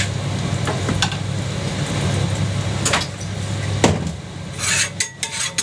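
A motor vehicle's engine running with a steady low rumble that weakens about four seconds in, with a few sharp clicks over it.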